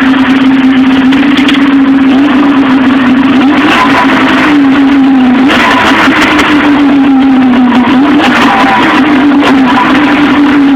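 Polaris XC SP 600 snowmobile's two-stroke twin engine running under way, its pitch dipping and rising several times as the throttle eases and opens, over a loud steady rushing noise.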